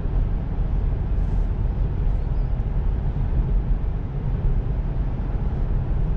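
Steady road and tyre noise of a Tesla Model 3 on the move, with a low rumble heard from inside the cabin.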